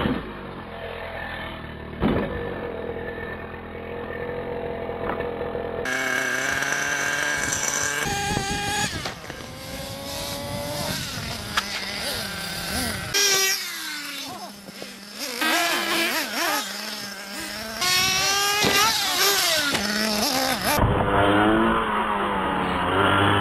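Radio-controlled model cars driving, their motors whining up and down in pitch as they speed up and slow down, with several abrupt changes in the sound where the footage cuts.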